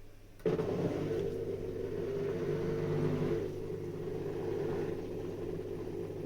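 Beko DTC36611W countertop dishwasher's pump motor switching on abruptly about half a second in and running with a steady hum. A hiss over the hum eases after about three seconds.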